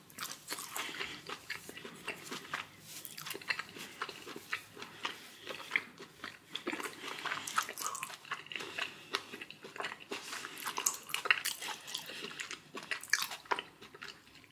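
Close-up chewing and wet mouth sounds of a person eating, with irregular small crunches and smacks.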